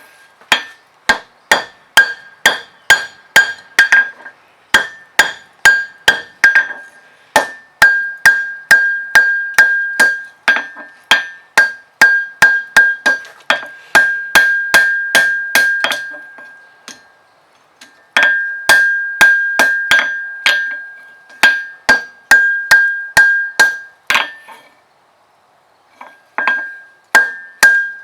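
Forging hammer striking steel on an anvil in runs of about two blows a second, each blow leaving a high ringing tone. Brief pauses fall about two-thirds of the way in and near the end.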